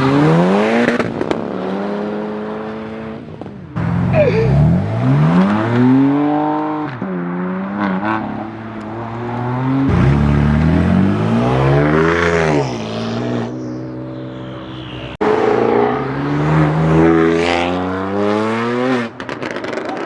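High-performance car engine revving hard, its pitch climbing and dropping back in several long sweeps, with sudden jumps in level between them.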